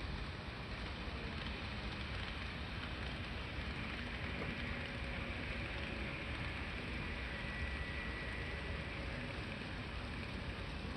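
N-gauge model trains running on a layout track: a steady rolling rattle of small wheels over rail joints, with a faint motor whine.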